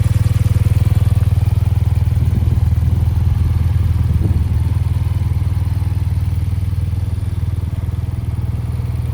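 BMW R 12 nineT's air/oil-cooled boxer twin running steadily at idle, an even low pulsing exhaust note with no revving.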